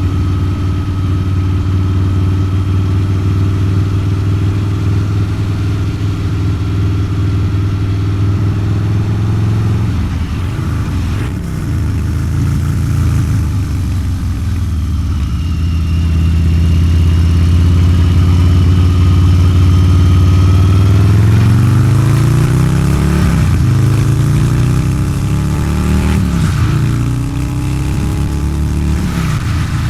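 Harley-Davidson 129 ci V-twin running through a Two Brothers Racing exhaust while riding, at a steady pitch for most of the time and a little louder about halfway. Near the end the engine note climbs and drops back about three times as the bike pulls through the gears.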